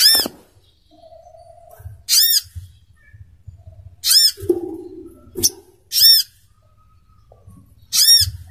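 Recorded calls of a sogok ontong (little spiderhunter): about six short, sharp, arched call notes, repeated every one to two seconds, over a faint low hum.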